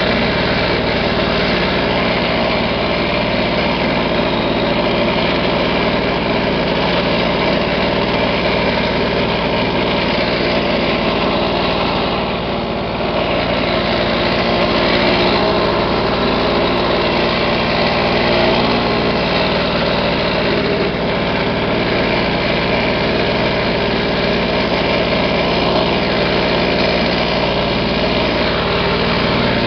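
1980s Lawn-Boy push mower's two-stroke engine running steadily, with a brief dip in level about twelve seconds in.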